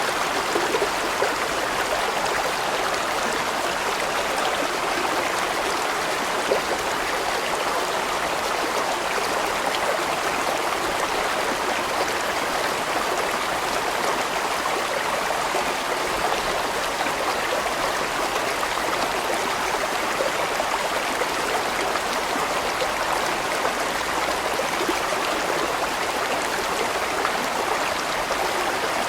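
A large mountain stream rushing and splashing over rocks in a steady, unbroken flow.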